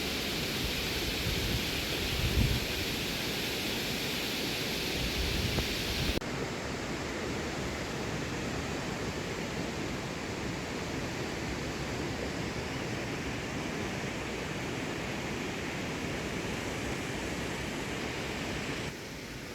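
Steady rush of fast-flowing stream water. The sound changes abruptly to a duller rush about six seconds in.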